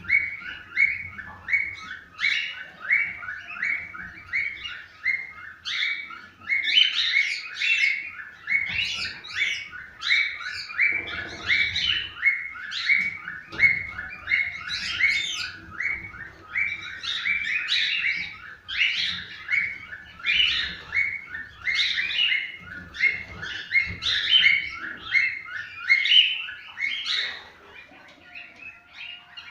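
Cockatiels chirping and singing: a fast, even run of short repeated chirps, about three a second, with louder, higher calls over it and a brief lull near the end.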